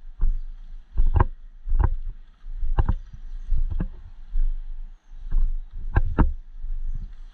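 Footsteps of a walking person with rustling clothing and gear, a thud every half second to a second.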